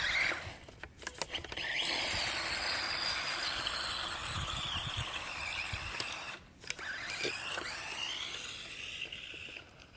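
Radio-controlled toy truck's electric motor whining at speed as it drives off, rising in pitch as it takes off. It cuts out briefly about six seconds in, then whines again for a second run.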